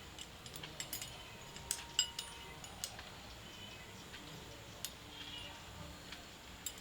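A scatter of light, sharp clicks and clinks of small hard objects being handled, a dozen or so in the first three seconds, then two more, the last near the end.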